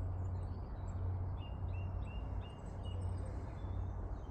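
Small birds chirping and tweeting, with a run of quick repeated high chirps in the middle, over a steady low rumble of background noise.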